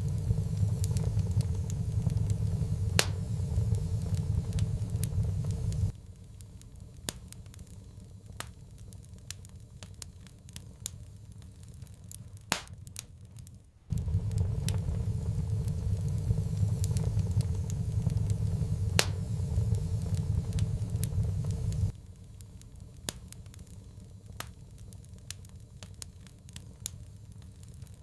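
Wood fire in a fireplace crackling, with scattered sharp pops. A deep rumble underneath cuts out suddenly about six seconds in, returns about fourteen seconds in, and cuts out again about twenty-two seconds in.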